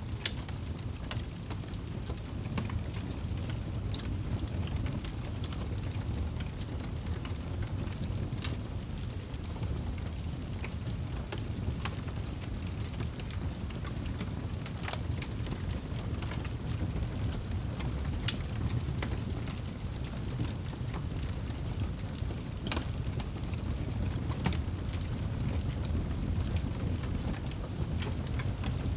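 Wood fire burning in a fireplace: a steady low roar of flames with scattered crackles and pops, a few sharper pops in the second half.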